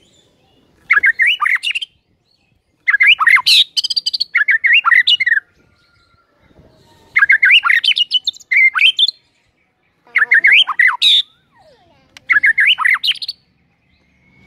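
White-rumped shama (murai batu) singing: five quick phrases of rapid, varied whistles and chirps, each one to two and a half seconds long, separated by short pauses.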